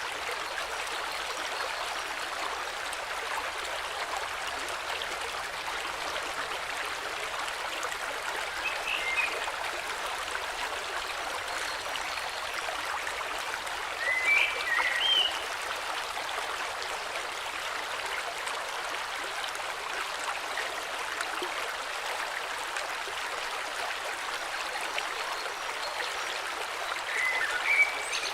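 Steady rushing of a flowing river, with a few brief bird chirps now and then, the loudest about halfway through and another near the end.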